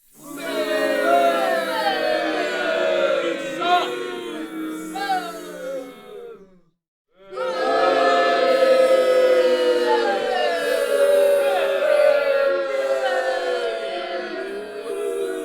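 A crowd of many voices booing together: long overlapping boos that slide down in pitch. It breaks off for about a second near the middle and then starts again.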